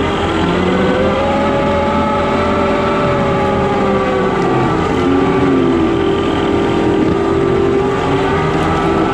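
Skid steer's diesel engine running steadily, with a whining tone that rises and falls in pitch.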